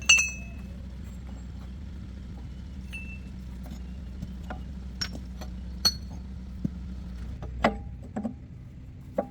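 Metal tools and parts clinking and knocking during mechanical repair work: a loud ringing metallic clink at the start, then single clinks every second or two. A steady low hum runs underneath and drops away near the end.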